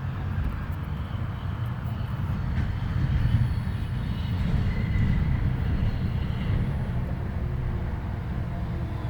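Steady low hum of a Bryant 561C air conditioner's compressor trying to start with a hard start kit and failing to turn over, the stall of a compressor that needs replacing.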